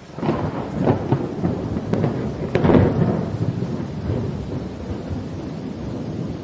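A thunderclap over steady rain: a sudden crackling onset with two loudest cracks about one and three seconds in, then a long rolling rumble that slowly dies away.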